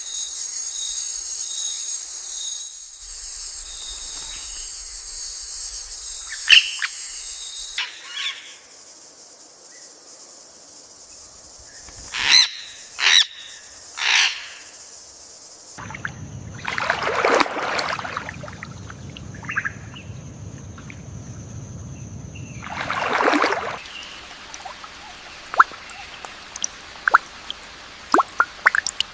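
Outdoor nature ambience in changing layers. A steady high insect-like buzz runs for about the first eight seconds. Three short calls come in the middle, then two longer swelling rushing sounds, and a few sharp clicks near the end.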